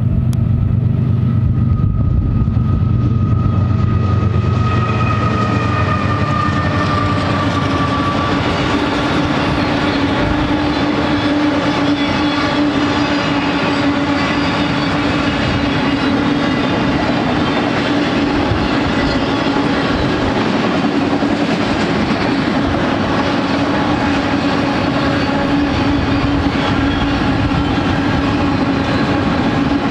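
A BNSF freight train passing close: the lead GE ES44C4 diesel locomotives drone by in the first several seconds, then a long string of auto-rack cars rolls past with steady wheel and rail noise, clickety-clack and a constant hum.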